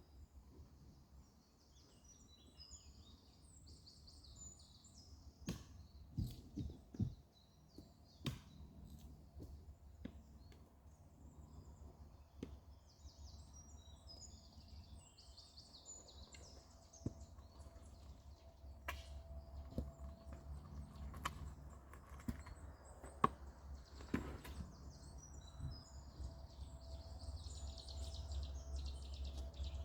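Songbirds singing in woodland, the same high, rapid song phrase coming back about every ten seconds. Scattered sharp knocks and clacks sound through it over a steady low rumble.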